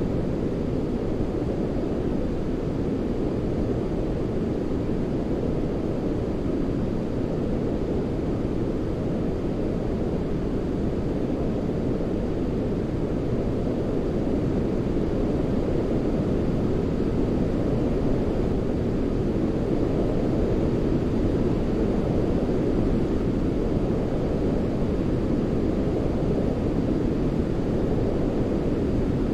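Steady low-weighted white noise for baby sleep: a deep, even rumbling hiss, much stronger in the low end than in the highs, much like the drone inside an airliner cabin. It rises a little in level about halfway through.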